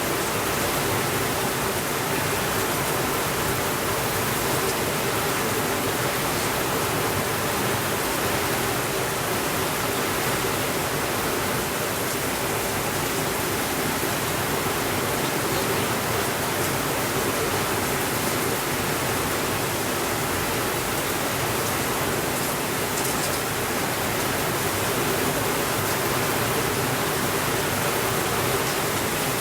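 Steady rainfall, an even, unbroken hiss of rain with no thunder.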